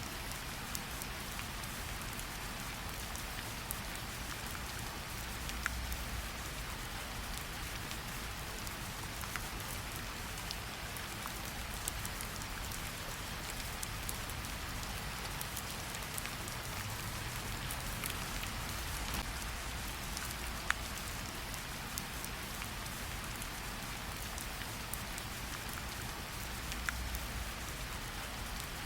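Steady light rain pattering on tree leaves, with separate drops dripping off the leaves in sharp ticks every few seconds.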